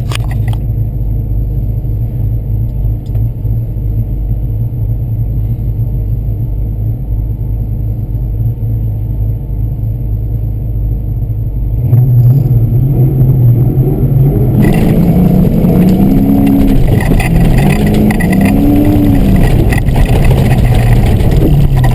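Fox-body Ford Mustang engine running steadily at low revs, then getting louder about halfway through and revving up and down several times, with a rushing noise joining in as the car gets under way.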